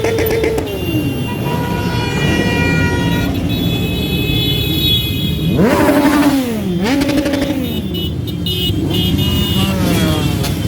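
Motorcycles in a parade riding past with engines running and revving, the loudest rev about six seconds in, dropping in pitch. A steady horn tone sounds for about two seconds starting a little over a second in.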